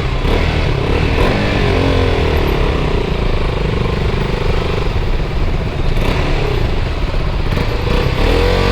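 KTM RC 200's single-cylinder engine running while the bike is ridden in slow traffic, its revs rising and falling a few times, holding steady for a couple of seconds, then a longer rise and fall near the end, over steady road and wind noise.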